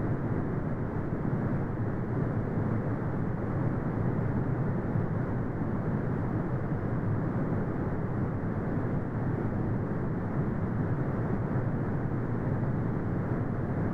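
Brown noise: a steady, deep rumbling hiss with most of its weight in the low end and little above the treble, with no changes.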